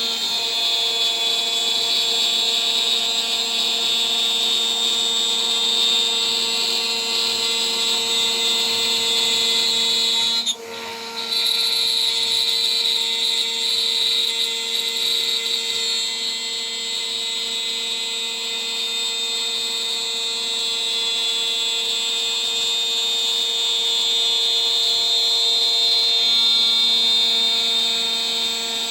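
DIY CNC spindle running at 14,000 RPM, a 3 mm three-flute aluminium end mill cutting: a steady high whine with cutting noise. It cuts out briefly about ten seconds in, then carries on.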